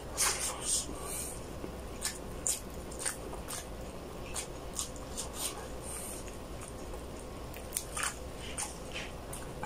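Close-miked eating sounds: a person chewing soft braised chicken, with irregular short mouth clicks and smacks, while fingers pull tender chicken meat off the bone.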